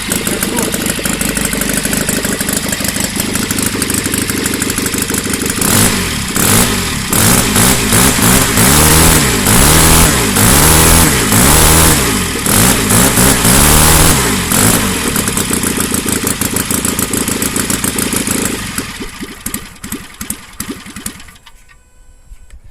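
Valach 120cc four-stroke model aircraft engine running steadily, then revved up and down repeatedly through the middle, back to a steady run, then throttled down and cut off near the end.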